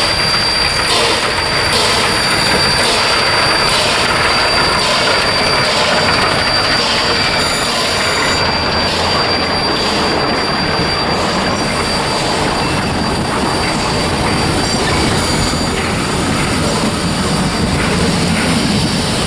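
Passenger train of open-air cars behind a geared Shay steam locomotive rolling past: wheels and trucks clattering and rumbling, with a thin steady high wheel squeal that fades out about halfway through.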